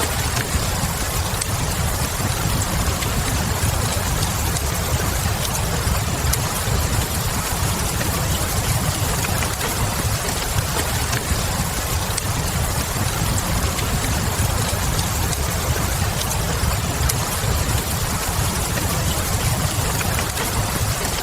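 Wood fire crackling with faint scattered pops over a steady hiss of rain and a low, even rumble.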